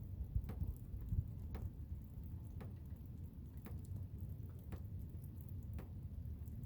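Low, steady rumble of blizzard wind, with a faint click repeating evenly about once a second.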